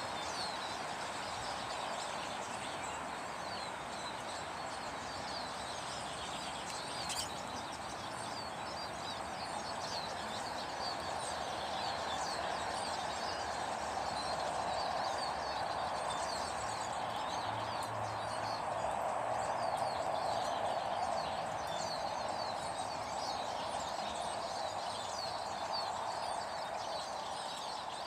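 Many small birds chirping in short, scattered calls over a steady background rush, with one brief click about seven seconds in.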